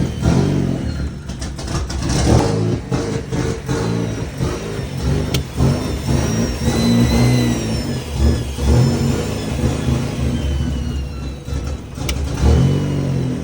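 Turbocharged Mazda Miata four-cylinder engine running and being revved on its first start-up with a newly fitted Pulsar 3071 turbo, the engine note rising and falling unevenly, with faint high whistles gliding down in pitch.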